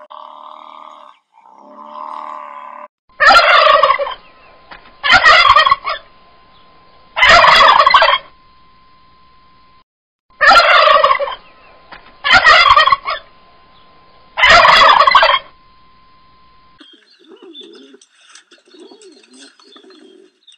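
A large bird calling loudly six times, each call about a second long, in two sets of three.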